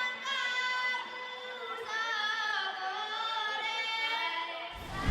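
Singing: a high voice holding long, wavering sung notes. Just before the end a loud, noisy rush cuts in.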